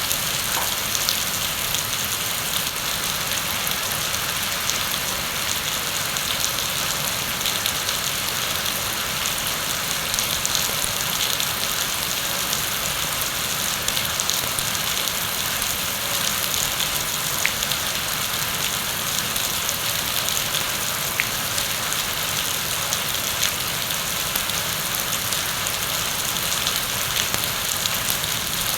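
Steady heavy rain: a dense, even hiss with scattered sharper drop ticks.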